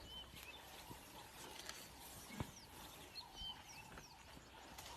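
Faint outdoor ambience with a low background hum and several short, high bird chirps scattered through it, plus a soft thump about halfway through.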